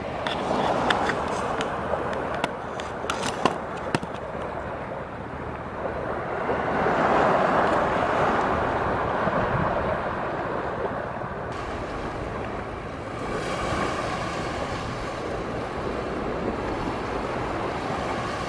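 Sea surf: waves washing in as a steady rushing noise that swells twice, with a few sharp clicks in the first few seconds.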